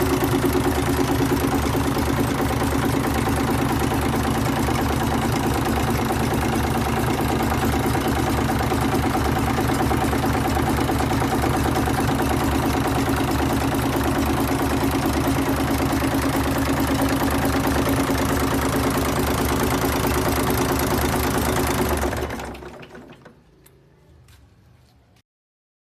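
Mitsubishi 6D15 inline-six diesel engine running steadily with a fast, even beat, then stopping near the end.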